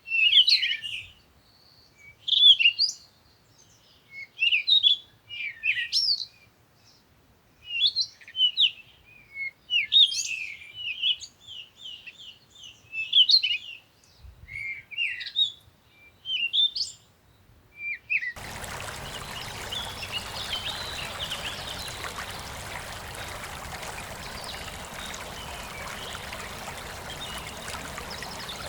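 A songbird singing short, fast phrases of sweeping chirps, one every one to two seconds, with quiet gaps between. About 18 seconds in the sound cuts abruptly to the steady rush of a stream.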